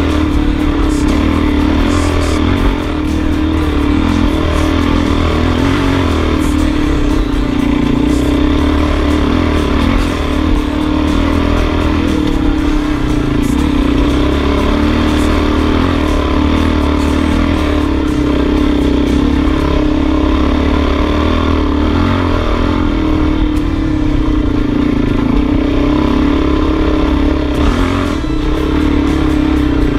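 Adventure motorcycle engine running at fairly steady revs as the bike is ridden, a continuous engine note.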